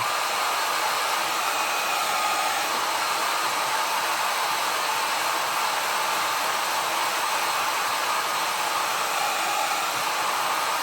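Handheld electric blow dryer running steadily, blowing air to dry wet watercolor paint on paper: an even, unbroken hiss.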